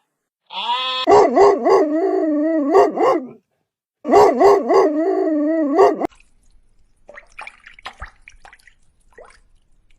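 Dog howling in two loud bouts of a couple of seconds each, its pitch wavering up and down in quick pulses. Faint scattered rustles follow.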